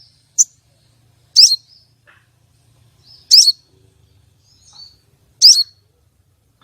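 Female crimson sunbird (sogon) calling: one short sharp chip, then three longer high chirps with a quick pitch twist, about two seconds apart. It is the female's call that draws males and brings them into breeding excitement.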